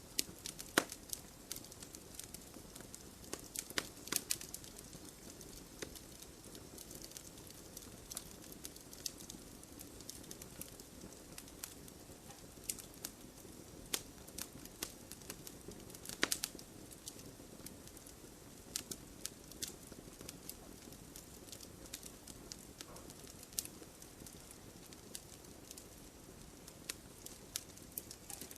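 Wood fire burning: firewood crackling and popping with irregular sharp snaps over a low steady hiss, a few louder pops standing out.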